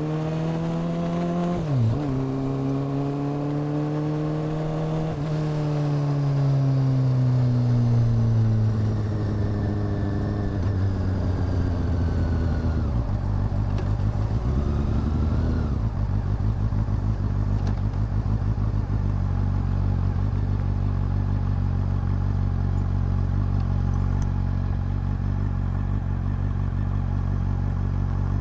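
Honda CB400 Super Four's inline-four engine and exhaust pulling up through a gear change about two seconds in, then the revs falling away as the bike slows, settling to a steady idle for the second half.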